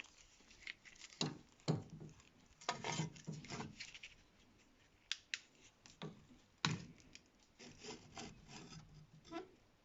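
Brake pad being handled and worked on a bench: irregular scraping and rubbing strokes with a few sharp clicks, in short clusters.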